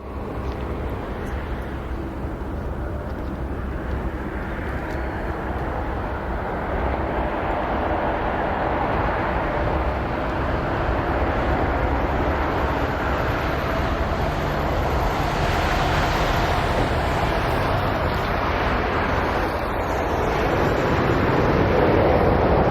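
Jet engine noise of a Boeing 777-300ER airliner on landing approach, its GE90 turbofans growing steadily louder as the aircraft draws nearer.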